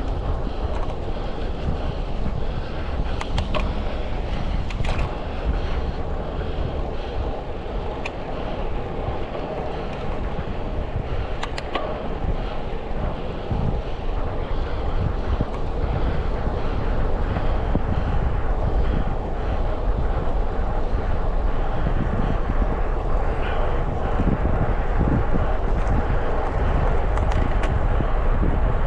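Steady wind rush on the microphone of a bike-mounted action camera while riding, with road and traffic noise underneath and a few faint clicks.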